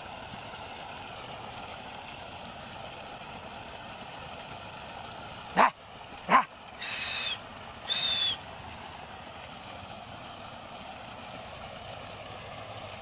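A dog giving two short, sharp yelps a little over five seconds in, followed by two brief high-pitched whining cries, over a steady background hum.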